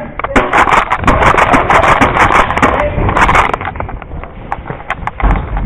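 Airsoft guns firing in rapid, irregular bursts of sharp snaps, mixed with clatter. They thin out to a few single snaps about three and a half seconds in.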